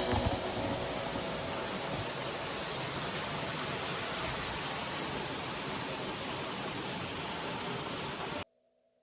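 Steady rushing of running water, an even hiss with no rhythm, that cuts off suddenly near the end.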